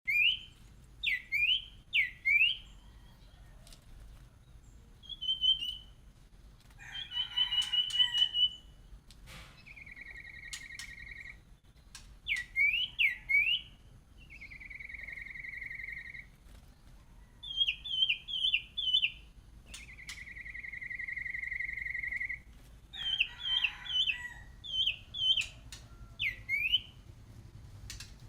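Songbird (huýt cô) singing loud, clear whistles in competition song: quick up-slurred whistles in runs of two to five, broken by long level whistled notes held for a second or two.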